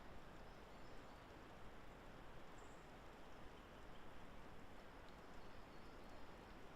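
Near silence: a faint, even outdoor hiss, with a few faint, short, high-pitched calls.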